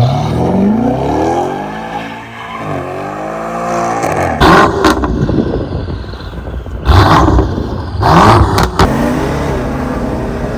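Turbocharged BMW engine accelerating hard through the gears, its pitch climbing, dropping at a shift, then climbing again. Several loud blasts of noise cut in during the second half.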